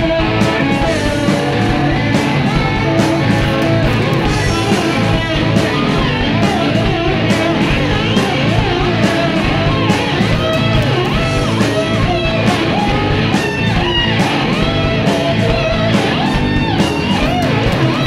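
Live rock band playing an instrumental passage: electric guitar with bending, gliding notes over bass and drums.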